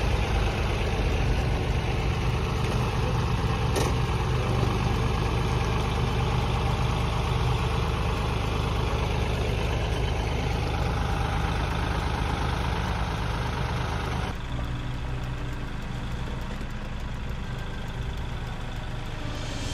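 Tractor engine running steadily at a low, idle-like speed while the tractor holds a heavy beam up. The sound turns a little quieter about two-thirds of the way through.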